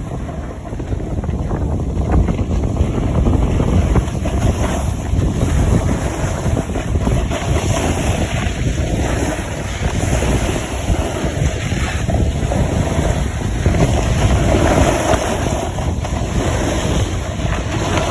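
Wind rumbling loudly on the microphone of a moving camera, with uneven swells.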